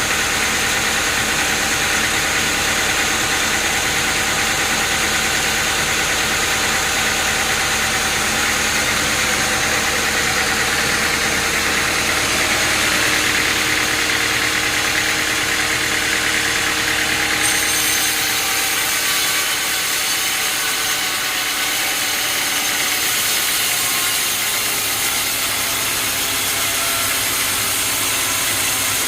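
Sawmill machinery running steadily, an engine-like drone with several held tones. About two-thirds of the way through, the sound changes and the deep rumble drops away.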